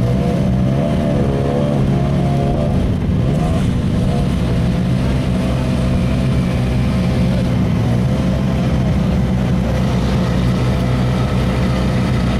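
Citroën C4 rally car's engine idling steadily as the car creeps slowly across the paddock.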